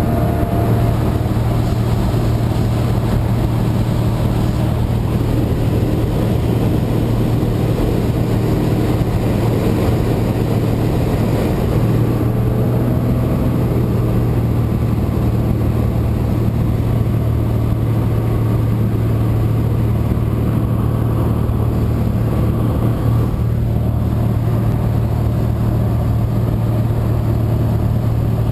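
Cessna 172's piston engine and propeller droning steadily in flight, a constant low hum.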